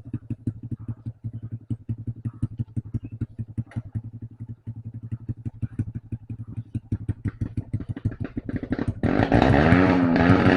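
Trail motorcycle engine running at low revs with a rapid, even putt. About nine seconds in, a louder engine revs up, its pitch wavering up and down.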